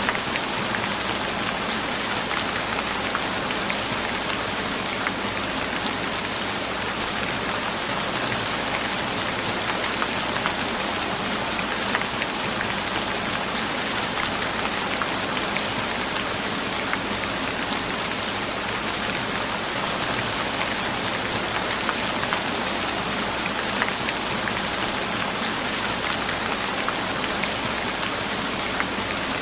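Steady rain falling: an even hiss with scattered taps of individual drops, holding constant throughout.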